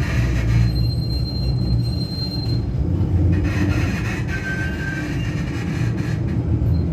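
Tatra KT3R tram rolling on rails with a steady low rumble. A high thin wheel squeal runs for about a second and a half, starting about a second in, and a shorter, lower squeal follows about four and a half seconds in.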